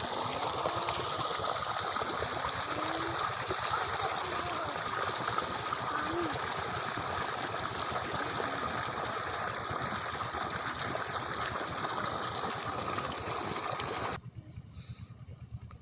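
Steady rush of irrigation water pouring from a diesel pump set's plastic delivery pipe. It cuts off suddenly near the end.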